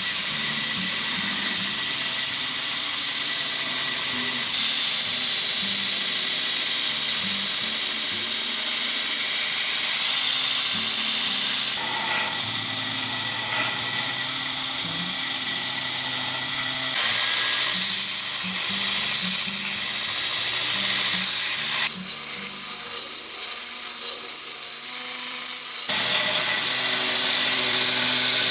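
Abrasive power tool working steel: a steady high hissing grind that changes character every few seconds as the work shifts, with faint background music.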